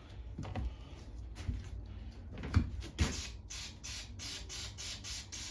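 Aerosol carb cleaner sprayed into a small-engine carburetor in a run of short hissing bursts, about three a second, starting about three seconds in. A few light knocks of parts being handled come before it.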